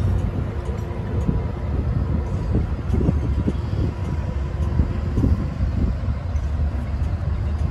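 Bi-level commuter train pulling away along the track: a steady low rumble with scattered clicks from the wheels and rails.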